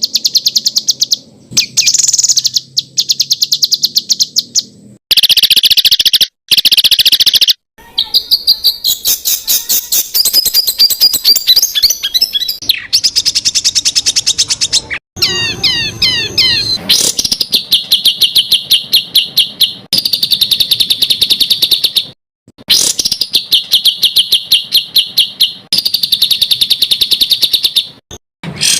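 Songbird song built from rapid-fire repeated notes: fast, high-pitched trills of many notes a second, in bursts of one to three seconds that cut off sharply one after another. About halfway through comes a short run of quick sliding whistled notes.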